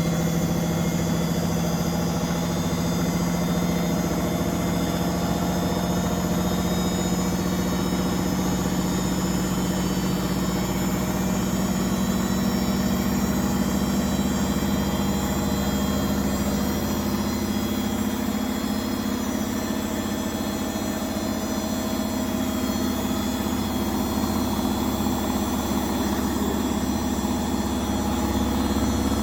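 Beko washing machine spinning: the motor and drum run with a steady hum, and the pitch steps up about halfway through as the spin speeds up.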